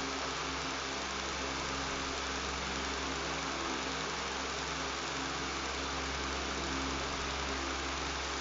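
Electric fan running steadily: a buzzing hum under an even rush of air, with no change in speed.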